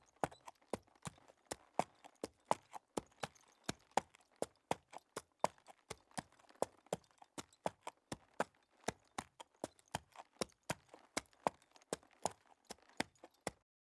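Sound effect of horse hooves clip-clopping at a walk: about three sharp hoof strikes a second, some stronger than others, starting and stopping abruptly.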